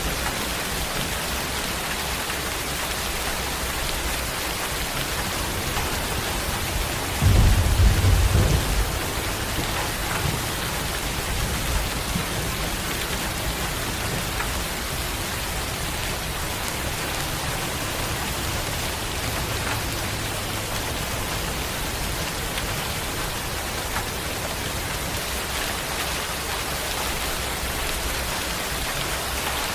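Steady rain falling, with one short low rumble of thunder about seven seconds in, the loudest moment.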